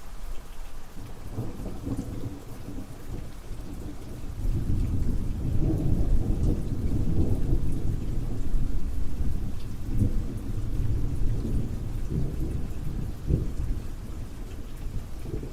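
Steady rain with a long, rolling rumble of thunder that swells about four seconds in and slowly dies away.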